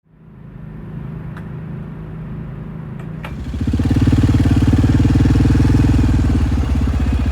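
Motorcycle engine running, which grows much louder and steadier about three and a half seconds in, with a couple of sharp clicks before that.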